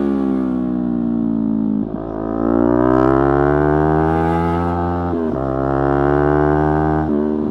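Yamaha R3's parallel-twin engine under way: revs falling for about two seconds, then climbing and pulling steadily, with quick gear changes about 2, 5 and 7 seconds in.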